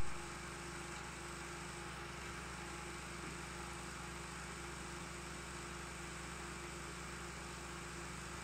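Steady hiss and low hum of an old 16mm optical film soundtrack's background noise, with no voice or music.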